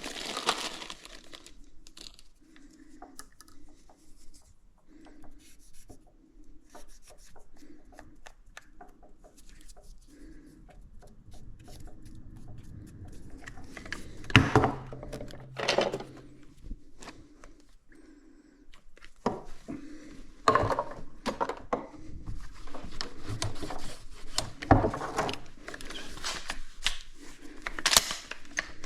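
Close handling noise: rustling and rubbing with scattered clicks and knocks, a few louder rustles in the second half.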